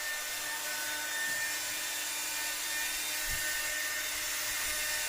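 Hand-held hair dryer running steadily on a dog's coat: an even blowing hiss with a faint high motor whine.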